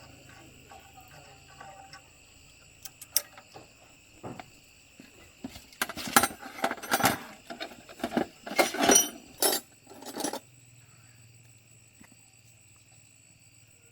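Hard clinking and clattering, like metal parts or tools being handled, in a dense run of loud strokes through the middle, over a steady high drone of insects.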